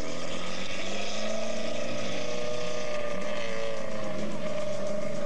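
Car engine running at steady, raised revs, its pitch climbing a little over the first second or two and then holding.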